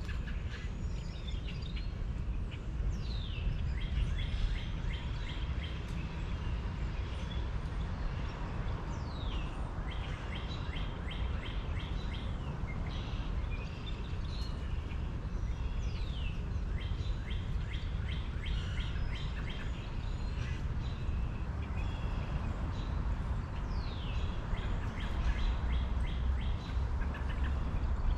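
Several birds chirping and trilling, with a sharp down-slurred whistle every few seconds, over a steady low rumble.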